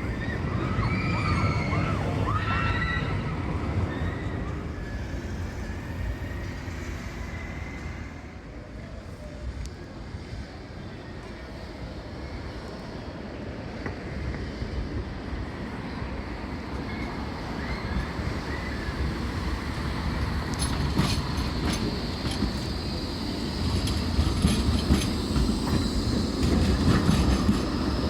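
A tram on the tramway: its wheels squeal briefly near the start, then a tram comes closer with a slowly rising whine and rapid clicking of wheels over the rails, growing louder near the end.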